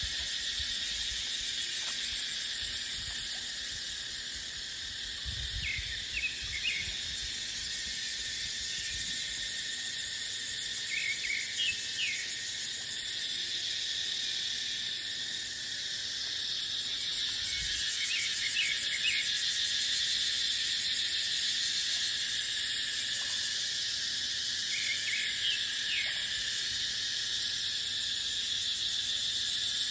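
A chorus of cicadas droning steadily in a high, shrill band. Short chirps come and go several times over it, and there is a low rumble of wind on the microphone now and then.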